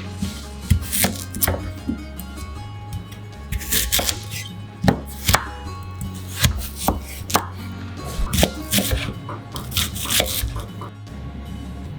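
Kitchen knife chopping on a cutting board in quick, irregular strokes, over background music.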